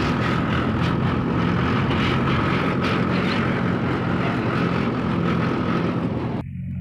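Tractor's diesel engine running steadily under load, a low, even hum with a hiss and a faint steady whistle over it. Near the end the hiss and whistle cut off abruptly, leaving the low engine hum.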